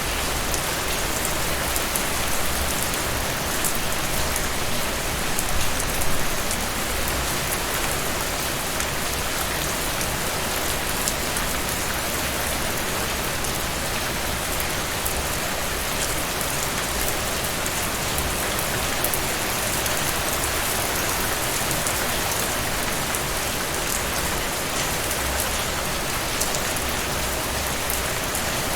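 Heavy rain falling steadily, a dense even hiss with many individual drops pattering on a surface.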